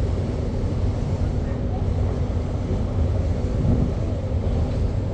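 Steady low rumble of a cruise boat under way, its engines running at a constant drone.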